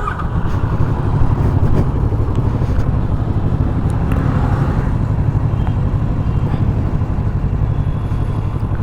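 Kawasaki Ninja 650's parallel-twin engine running steadily at idle, a low, even rumble with street noise around it.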